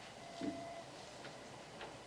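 A light knock about half a second in, with a brief faint ring after it, then a couple of faint ticks.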